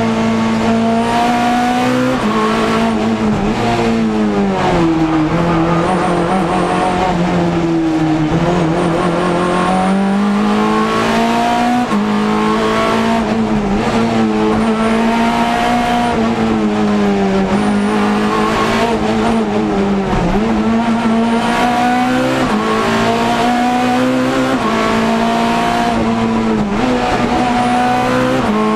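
Ford Focus race car's engine heard from inside the caged cabin under hard acceleration, its pitch climbing through each gear and dropping at the shifts, then sagging and rising again as the car slows for corners and pulls out of them.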